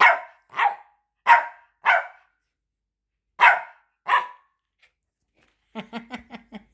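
Pet dog barking: four sharp barks about half a second apart, a pause, then two more. Near the end there is a short, quieter run of rapid stuttering pulses.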